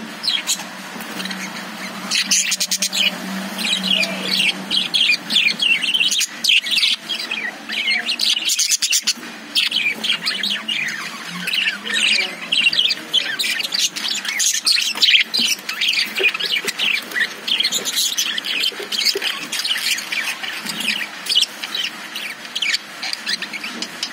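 Caged budgerigars chirping and chattering in a dense stream of quick, overlapping high calls.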